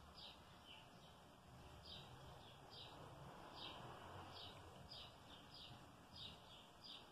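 Faint bird chirps, short high notes that slide downward, repeating irregularly about one or two a second over quiet room tone.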